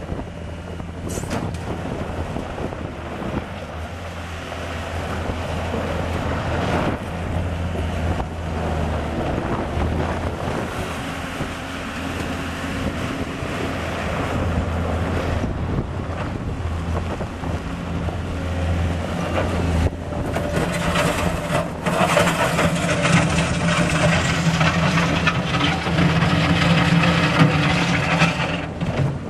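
2012 Mustang 2700V skid steer loader's diesel engine running steadily, getting louder and busier about twenty seconds in as the machine works.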